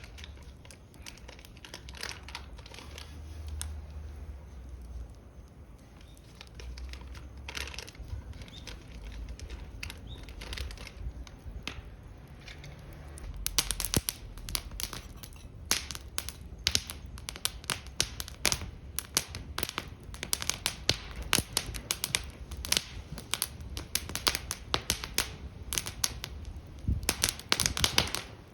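Wood fire crackling and popping, the pops growing much busier and louder about halfway through.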